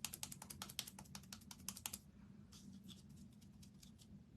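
Faint typing on a computer keyboard: a quick run of keystrokes for about two seconds, then a few scattered, fainter ones.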